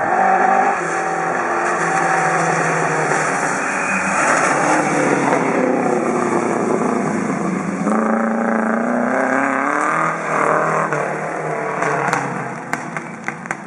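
Rally car engine running hard as the car passes at speed, its pitch climbing and dropping with gear changes and lifts of the throttle. The sound fades about twelve seconds in, with a few sharp clicks near the end.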